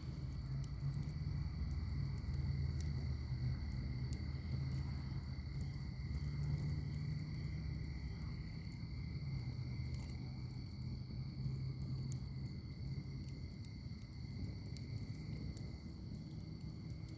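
Wood fire burning in a fire pit: small crackles and pops over a low, steady rumble of flame, with a constant high insect-like chirring in the background.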